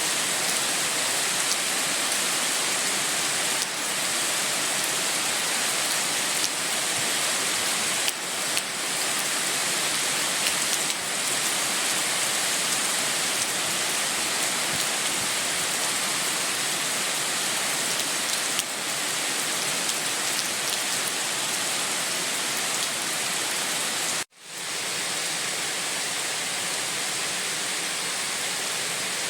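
Steady heavy rain, an even hiss. Near the end it cuts out for a moment and comes back slightly quieter.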